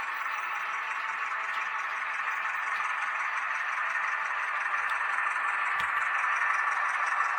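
H0-scale model of a Renfe Alco 313 diesel locomotive running, a steady rushing noise that slowly grows louder, with a faint click about six seconds in.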